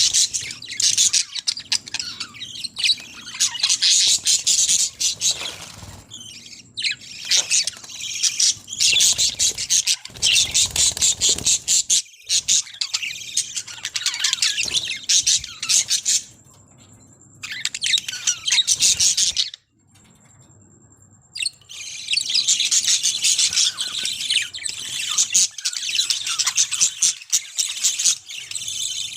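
A flock of cage birds chattering, chirping and squawking, many calls overlapping without pause. The chatter drops away twice for a couple of seconds in the middle, then resumes just as dense.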